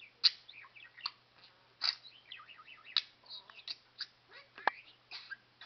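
Pet budgerigar chattering: a quick run of warbling notes and clicks, with a sharp chirp about once a second.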